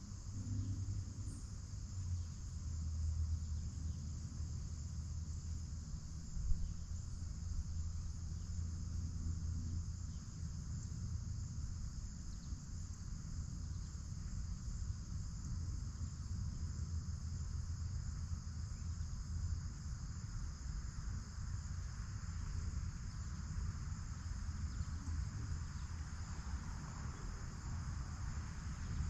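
Crickets chirping in a steady, continuous chorus over a constant low rumble, with a single brief knock about six seconds in.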